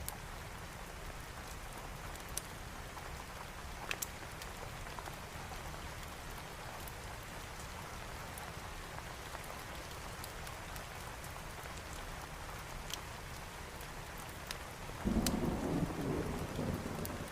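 Steady thunderstorm rain with a few sharp clicks, and a low rumble of thunder breaking in about fifteen seconds in.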